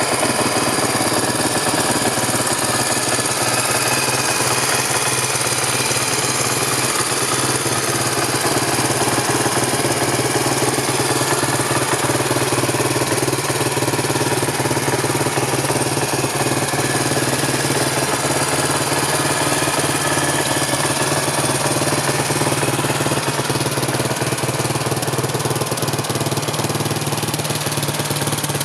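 1996 Suzuki DR350's single-cylinder four-stroke engine idling steadily.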